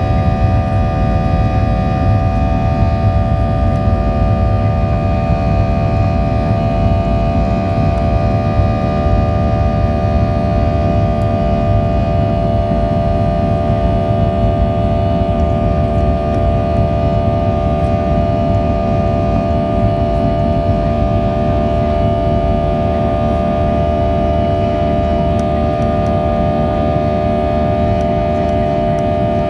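Boeing 737 jet engines running at takeoff thrust: a steady whine of several held tones over a heavy rumble, unchanging throughout.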